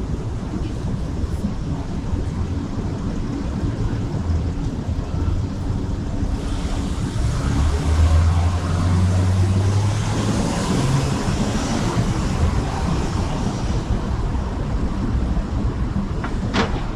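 Downtown street traffic: a steady low rumble of vehicles, with a heavier engine passing about seven seconds in, its hum and tyre hiss rising and fading over several seconds. Two sharp clicks near the end.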